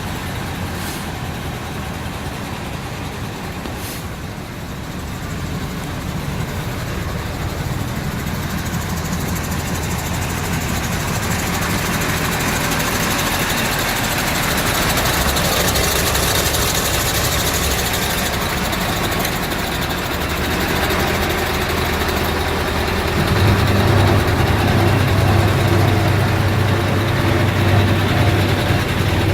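Diesel engine of a Mercedes-Benz 2628 6x4 tipper truck running steadily. It grows louder through the first half, and a deeper, stronger steady note comes in about two-thirds of the way through.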